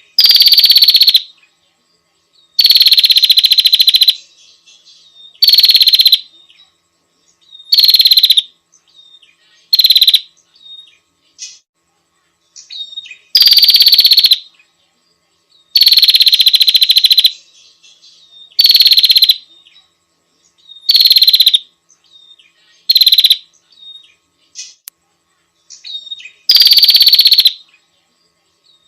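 Female prenjak (prinia) calls played as a bird lure: about a dozen loud bursts of rapid, buzzy chirping, each a second or so long, coming every two to three seconds. Fainter short chirps fill the gaps between them.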